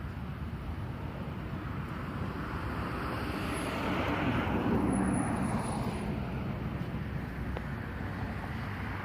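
A car passing on a nearby road: tyre and engine noise swells to its loudest about five seconds in, then fades, over a steady traffic rumble.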